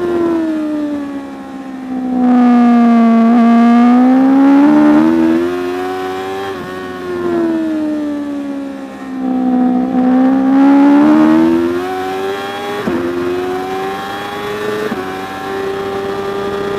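Racing superbike engine under hard use. Its pitch falls as it slows over the first few seconds and again around the middle, and rises under acceleration in between. Near the end come two sudden pitch steps, like quick gear changes.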